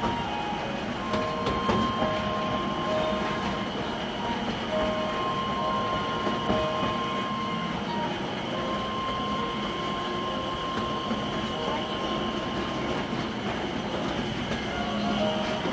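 Narrow-gauge forest railway train running along the track, heard from the passenger carriage: a continuous rolling rumble, with long, thin high tones coming and going over it.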